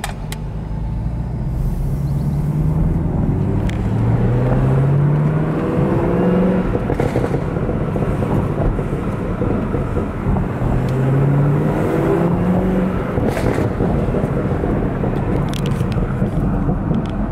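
Car engine and road noise while driving, the engine note rising twice as the car accelerates through the gears.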